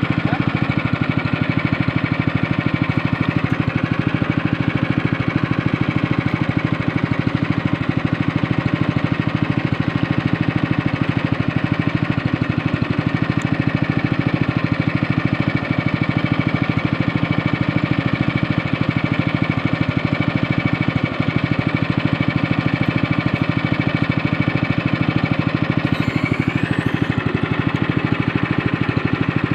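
Speedboat's outboard engine running steadily while under way. A brief faint rising whine comes near the end.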